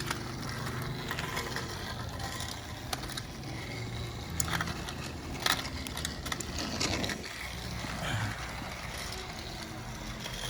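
Battery-powered TrackMaster toy train engines whirring steadily along plastic track. Several sharp clicks are spread through the run.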